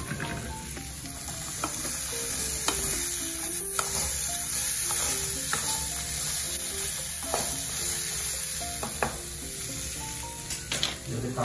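Spatula stirring and scraping black chickpeas as they fry with spices in a kadai, under a steady sizzle.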